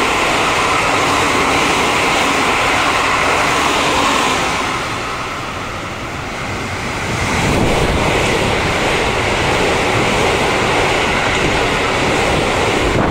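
Red Keikyu electric trains running through the station at high speed close by: a steady loud rush of wheels on rail and rushing air. The noise eases off around the middle as the first train clears, then rises again as a second train speeds past.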